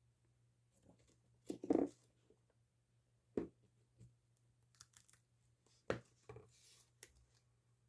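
Packaging being handled and opened by hand: a few short rustles, taps and tearing sounds, the loudest about two seconds in.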